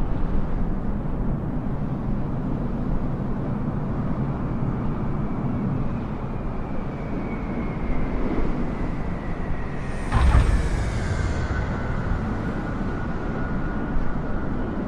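Boeing 777 jet landing: a steady rumble with a turbine whine slowly falling in pitch, and a short, loud low rumble about ten seconds in, at the touchdown of a landing that was not smooth.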